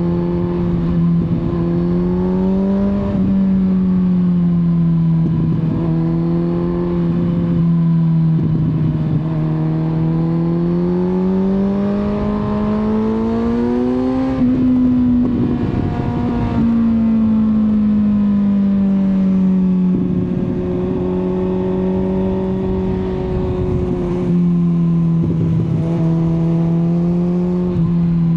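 Kawasaki Z900's inline-four engine pulling on the road. Its pitch climbs a few seconds in, climbs again to a peak about halfway, then eases slowly back down. Gusts of wind noise hit the microphone throughout.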